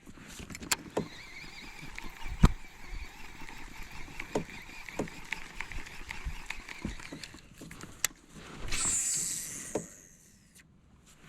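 Scattered knocks and clicks of gear against a fishing kayak, the loudest about two and a half seconds in, with a brief rushing swell near the end.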